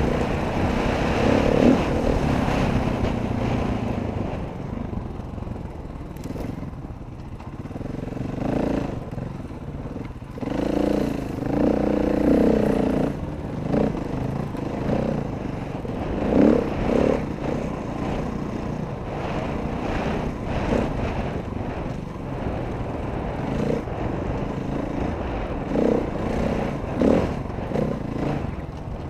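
Dirt bike engine running under load on a trail ride, revving up and down repeatedly as the throttle is worked.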